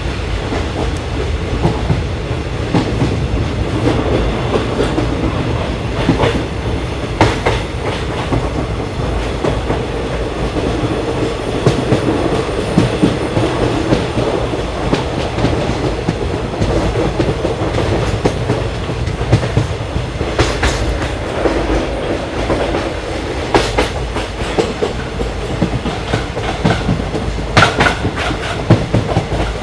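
Train running along the rails: a continuous rolling rumble with a few louder, sharp clacks of the wheels over rail joints.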